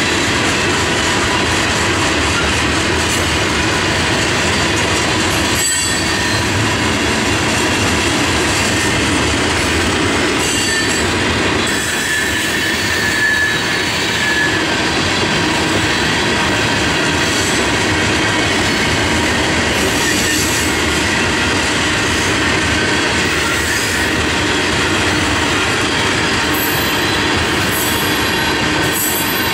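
Railroad tank cars of a freight unit train rolling past steadily, the wheels clattering on the rail. A high wheel squeal stands out briefly about twelve seconds in.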